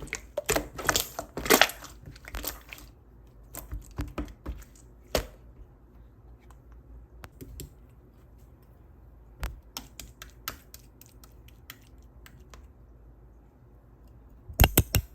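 Clear, glossy-coated slime being pressed and squished by hand, giving sharp crackly clicks: a quick run in the first few seconds, scattered single clicks through the middle, and another quick run near the end.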